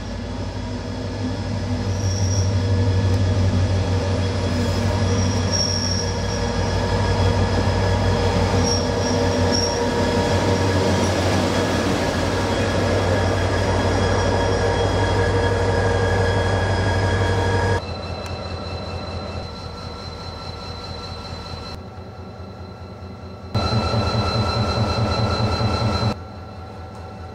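Diesel train running on the track, a steady low engine drone with high-pitched wheel squeals coming and going over the first ten seconds or so. About eighteen seconds in the sound drops suddenly to a quieter train running, with a short louder burst of train noise a few seconds before the end.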